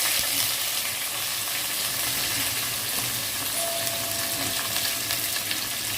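Chopped onions and curry leaves frying in hot sesame oil in a pan, making a steady sizzle.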